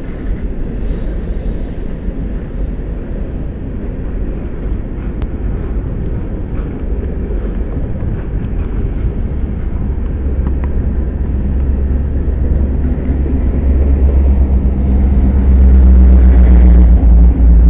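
Long Union Pacific hopper train rolling past at close range, a steady rumble of wheels on rail. The rumble grows louder over the last several seconds, and a steady diesel engine note joins it as the mid-train EMD SD70ACe locomotives pass directly beneath.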